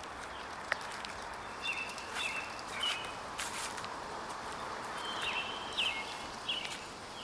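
Footsteps crunching through dry fallen leaves on a forest trail, with small birds giving short, high chirps several times over a steady outdoor background.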